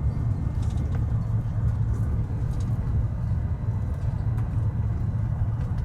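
Steady low rumble of a Eurostar high-speed train running, heard inside the carriage, with a few faint clicks.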